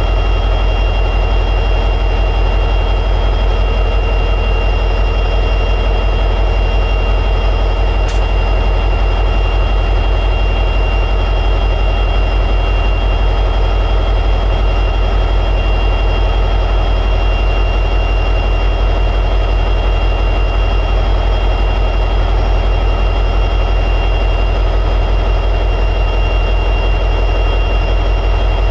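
EMD 710G3B 16-cylinder two-stroke diesel prime mover of an SD60E locomotive running steadily in high idle, a deep even rumble with a steady high-pitched whine over it.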